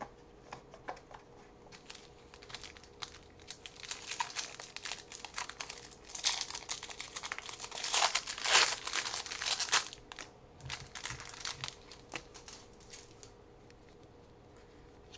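A basketball-card pack wrapper being torn open and crinkled: irregular crackling, loudest in the middle, dying away a couple of seconds before the end.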